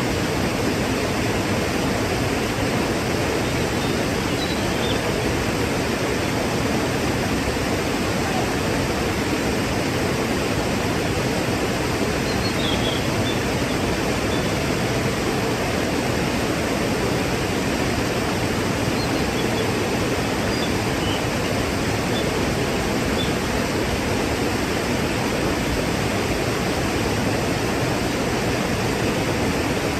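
Waterfall, its water falling in a steady, even rush. A few faint, brief high chirps come through the rush, around the middle.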